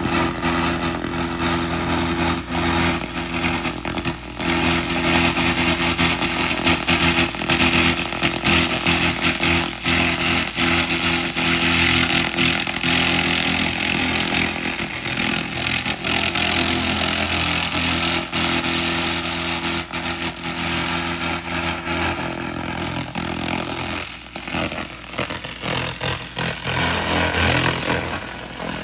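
SFX 2000 laser rust remover running, a continuous buzzing crackle as the beam works over rusted metal, over a steady machine hum. The crackle briefly thins near the end.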